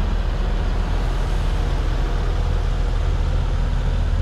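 Large engine running steadily at an even speed, a low constant drone.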